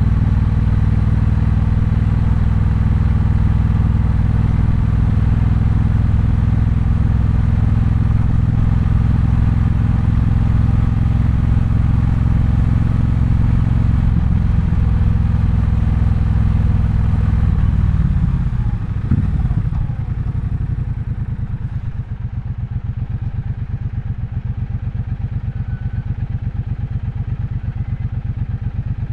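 Triumph Bonneville Bobber's 1200 cc parallel-twin engine running steadily while riding. About 18 seconds in, the pitch falls as the bike slows, and it then settles into an even, lumpy idle at a lower level.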